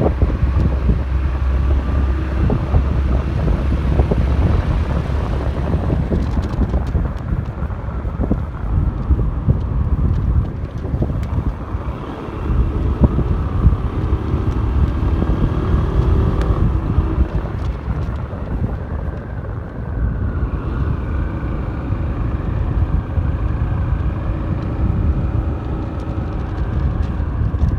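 Wind buffeting the microphone over the steady running noise of a moving vehicle, most likely a delivery motorbike ridden through a sandstorm.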